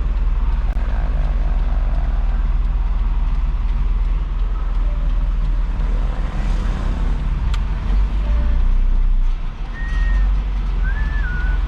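Isuzu FRR90 truck's four-cylinder diesel engine running steadily while driving. Its loudness briefly dips about nine seconds in, and a few short high chirps come near the end.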